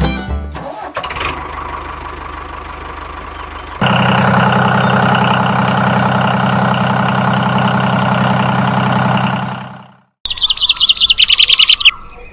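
A small engine starts up suddenly and runs steadily for about six seconds, then fades out. A burst of rapid, high bird chirps follows near the end.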